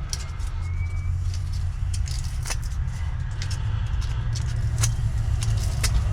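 Sandpaper scraping the oxidised ends of copper wire for soldering, heard as scattered brief scratches over a steady low rumble.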